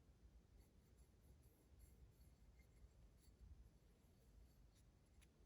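Near silence: faint low room hum with a few soft clicks and scratching, as of small parts being handled.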